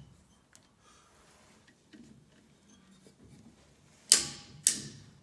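Click-type torque wrench clicking twice, about half a second apart, as it reaches its set torque on a VW air-cooled engine crankcase nut. Faint tool handling before the clicks.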